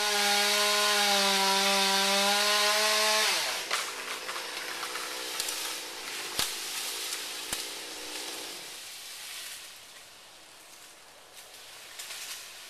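Chainsaw held at full throttle for about three seconds, then let off so its pitch drops to a quieter idle, which carries on until about nine seconds in. Two sharp knocks sound during the idle.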